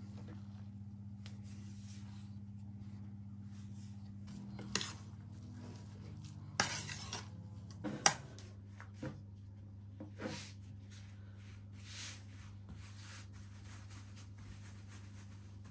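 Kitchen utensils and dishes clinking and knocking during food preparation: a few sharp clinks, bunched in the middle, over a steady low hum.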